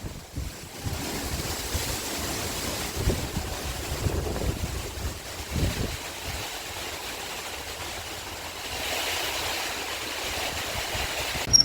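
Steady rushing noise with uneven low rumbles, growing hissier near the end, then a short high chirp right at the end.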